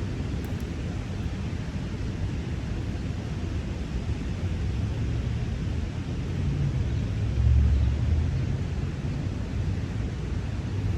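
Steady low outdoor rumble with no clear source, swelling briefly about seven and a half seconds in.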